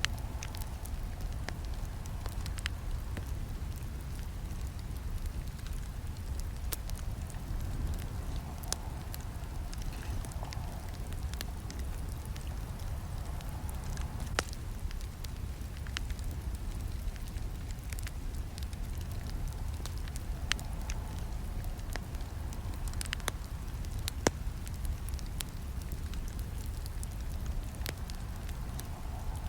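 Campfire burning: a steady low rumble of flames with frequent sharp crackles and pops of burning wood. Two louder snaps stand out, one about halfway through and another a few seconds later.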